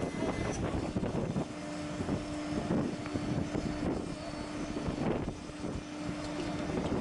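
Steady rushing, rumbling background noise on a cruise ship's open deck, with a low steady hum that starts about a second and a half in and stops shortly before the end.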